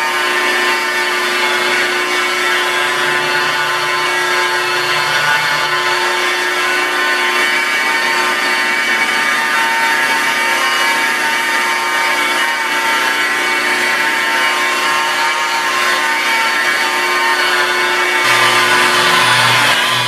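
Rotary car polisher running steadily at about 1500–2000 RPM, its foam composite pad working rubbing compound over the paint: a constant motor whine over a rubbing noise. Music with a low pulsing beat comes in near the end.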